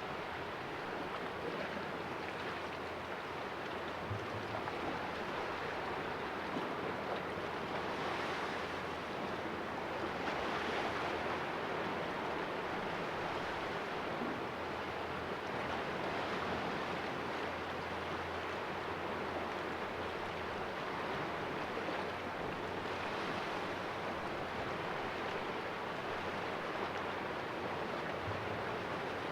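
Sea waves washing and splashing against the rocks of a small cove: a continuous surf wash that swells a few times, most strongly about ten seconds in.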